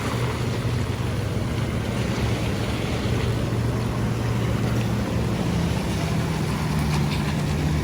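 Steady rushing of rain and wind noise on the microphone, with a low steady hum underneath.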